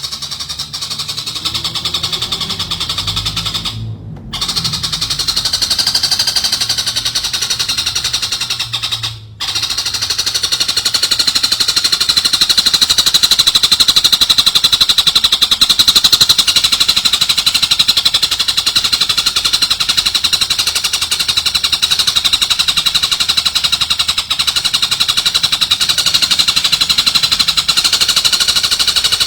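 A songbird's rapid, high trilling chatter, repeated without pause. It cuts out briefly twice in the first ten seconds, then runs on steadily and loud.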